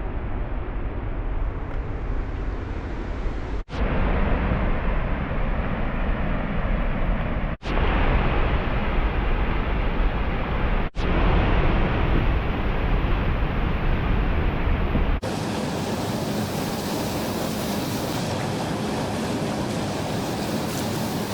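Steady rushing of a waterfall, broken by several abrupt cuts. From about fifteen seconds in, the rush turns to a brighter, even hiss with less rumble.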